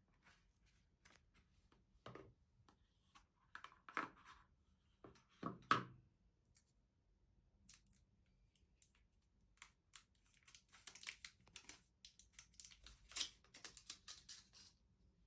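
Quiet handling sounds: scattered light taps and knocks, then from about ten seconds in a few seconds of crackly tearing and crinkling of packaging.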